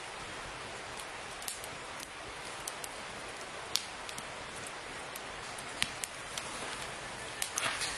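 Wood campfire crackling: a steady hiss with irregular sharp pops and snaps scattered throughout.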